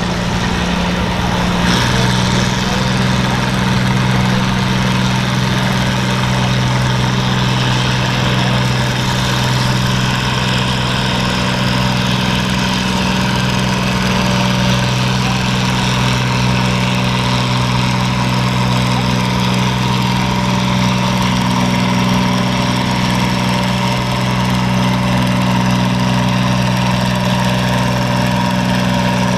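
Pulling tractor's engine running steadily at a constant pitch and loudness, with a slight change in its note about two seconds in.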